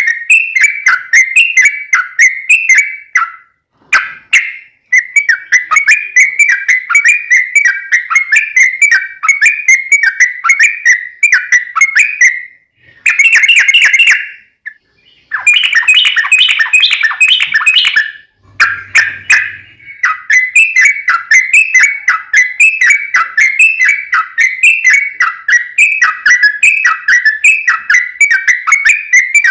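Yellow-vented bulbul (trucukan) song: long, rapid rolling runs of quick repeated whistled notes, several a second. It breaks off briefly a few times and has a denser, busier stretch about two-thirds of the way through.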